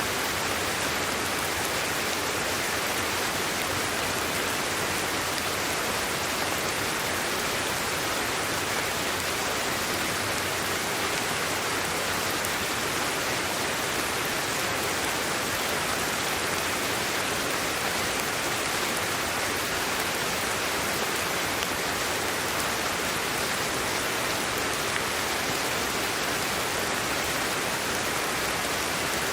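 Steady hiss of sleep-aid white noise, even and unchanging, with most of its energy in the upper range.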